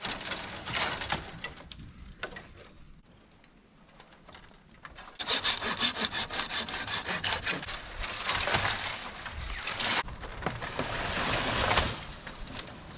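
Hand sawing through wood in quick back-and-forth strokes, heard in several short cut-together stretches that change abruptly, with a quieter gap about three seconds in.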